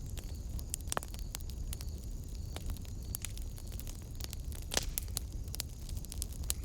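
Wood fire crackling in a fireplace: irregular sharp pops and snaps over a low steady rumble of the flames, with one louder pop near the end.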